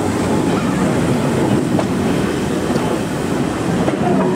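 Train of old wooden-bodied passenger coaches rolling past close by behind a steam tank engine, a steady rumble with wheels clicking over the rail joints.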